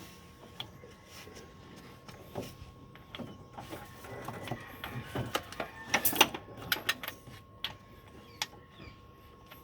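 Irregular clicks and knocks of hand tools and metal parts being handled during engine work, coming thickest and loudest around the middle, over a faint steady hum.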